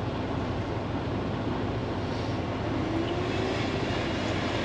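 Steady in-cab noise of a day-cab semi truck's diesel engine running, with a faint rising whine about three seconds in.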